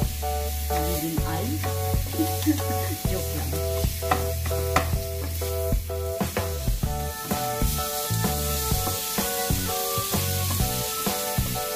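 Ground meat sizzling in a frying pan while a wooden spatula stirs it, with frequent sharp knocks and scrapes of the spatula against the pan. Background instrumental music with held notes and a bass line plays throughout.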